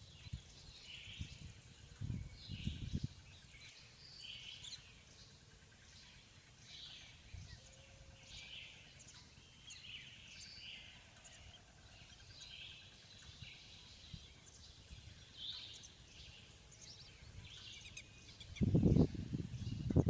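Birds chirping: many short, high calls, about one a second. A low rumble rises briefly around two seconds in and comes back louder near the end.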